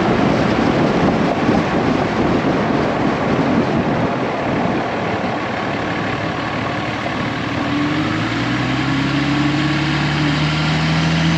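Rumbling noise of a passing train, giving way about eight seconds in to a steady, low engine hum.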